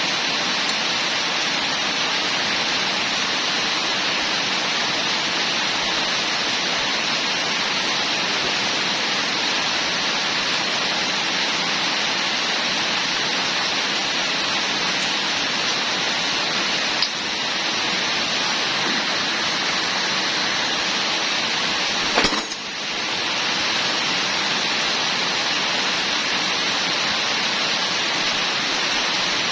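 A steady rushing hiss with no clear pitch, broken by a brief click about 17 seconds in and a sharper knock about 22 seconds in.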